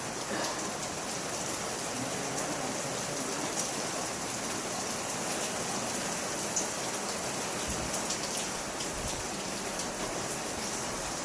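Steady water noise, like rain falling, with scattered faint ticks of drops over a constant hiss.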